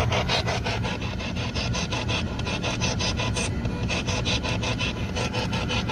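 Spirit box sweeping through radio stations: a rapid, even chop of static bursts, about six a second.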